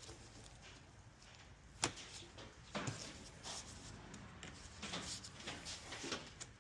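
Handling noises from work on the dirt bike: one sharp click about two seconds in, then several short scraping and rustling bursts.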